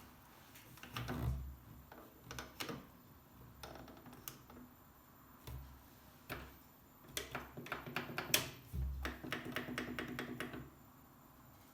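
Scattered clicks and knocks, thickening into a quick run of clicks and then a fast, buzzy rattle about nine seconds in.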